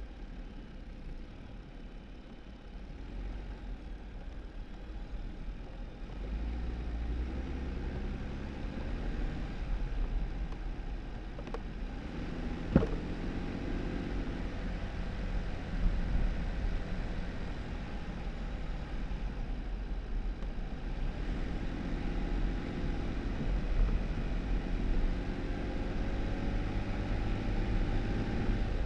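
2018 Jeep Wrangler driving on a snowy dirt road: a steady low rumble of engine and tyres, with the engine note rising as it speeds up twice. One sharp knock sounds about halfway through.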